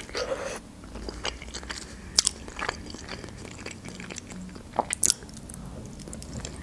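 A person chewing soft boiled dumplings with mouth and biting sounds, broken by a few short sharp clicks, the loudest near the end.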